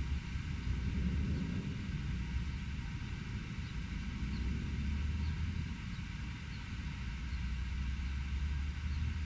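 Urban outdoor ambience: a steady low rumble of distant road traffic that swells and eases slightly, with a few faint, short high chirps now and then.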